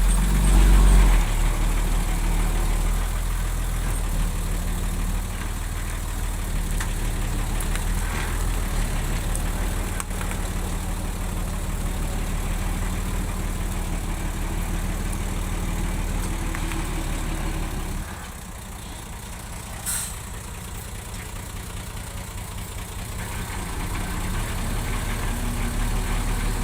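Diesel engine of heavy earthmoving machinery running steadily with a deep rumble. It drops to a lower level about two-thirds of the way through, then builds up again near the end. A single short click sounds partway through.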